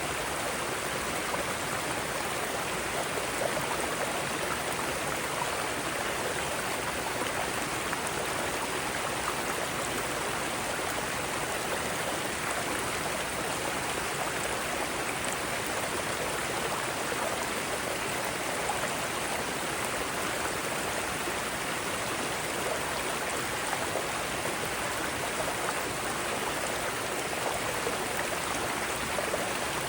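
Mountain stream cascading over rocks: a steady, even rush of water with no breaks.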